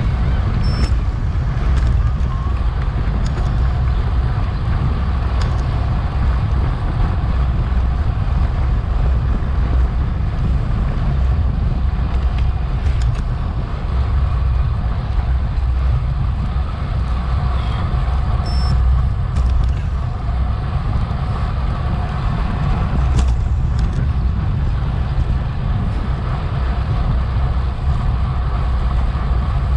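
Wind buffeting a bike-mounted action camera's microphone during a road race, a steady low rumble mixed with tyre and road noise, with a few faint clicks.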